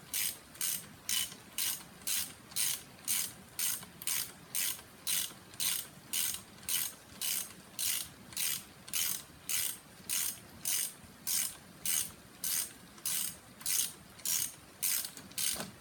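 Hand ratchet clicking in steady, even strokes, about two a second, as a bolt is backed out of the alternator bracket; the clicking stops near the end.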